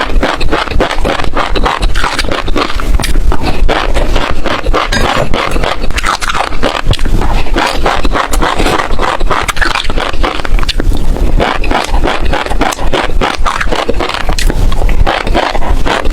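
Close-miked chewing of crunchy seeds: a dense, unbroken run of small crisp cracks and crunches.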